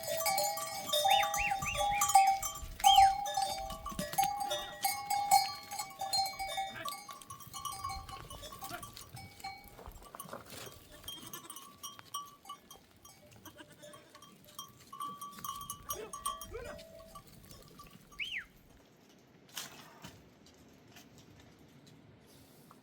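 Bells on a herd of goats clinking and ringing as the animals move, with goats bleating. Loudest in the first several seconds, fading after about ten seconds.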